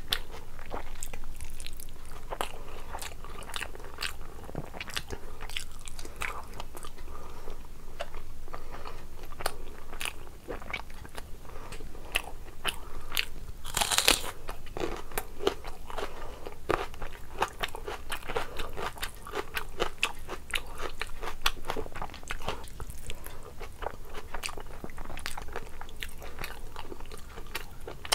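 Close-up eating sounds: a person chewing and crunching mouthfuls of rice and curry eaten by hand, with many small sharp crackles and clicks and one louder crunch about halfway through.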